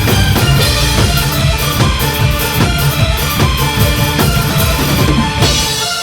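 Live band playing an electronic-rock arrangement of a pop song, driven by a drum kit with a steady kick-and-snare beat under bass and keyboard or guitar parts, with no vocals. The band drops out briefly near the end.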